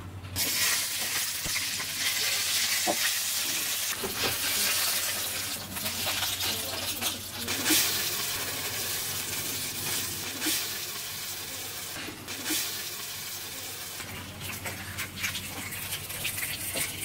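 Beef slices and tofu frying in oil on a stainless steel tray: a steady sizzle with scattered small crackles and pops.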